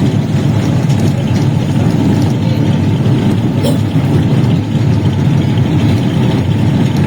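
Steady low rumble of a running vehicle, even throughout with no changes in speed.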